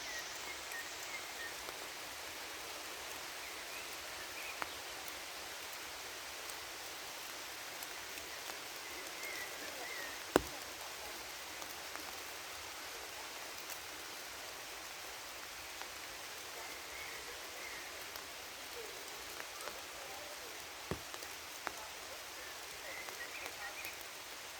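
Steady rain falling on forest foliage, an even hiss with scattered louder drip strikes, the sharpest about ten seconds in.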